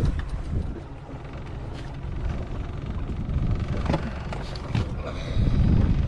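Boat motor running at low speed, picking up near the end, with a couple of short knocks around the middle.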